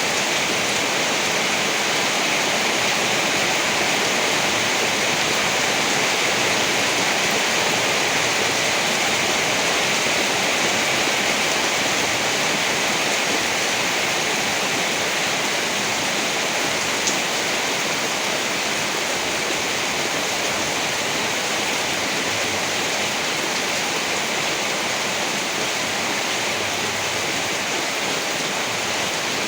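Steady heavy rain, an even hiss with no rises or breaks.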